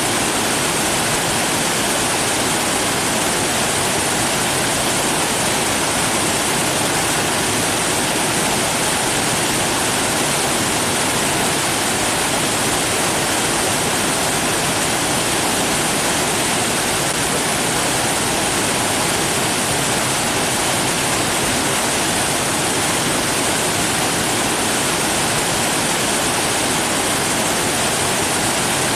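Steady, even rush of running water, constant throughout with no changes or distinct splashes.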